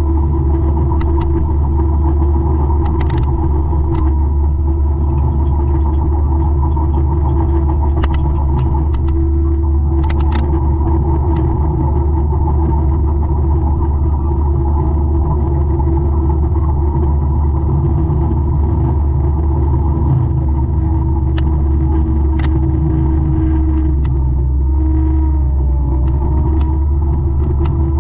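The 200-horsepower forestry mulcher's diesel engine running steadily under load, a loud, even low drone. A few sharp clicks and ticks sound over it now and then.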